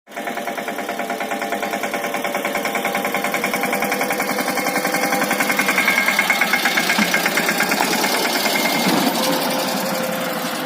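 Mahindra Yuvraj 215 NXT mini tractor's single-cylinder diesel engine running with an even, pulsing beat, getting louder toward the middle and easing off near the end.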